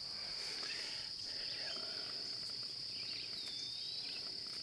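Steady high-pitched chorus of insects, one unbroken shrill buzz.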